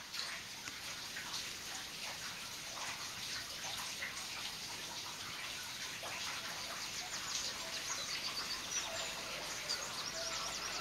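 Quiet outdoor ambience with many small, scattered bird chirps over a light hiss.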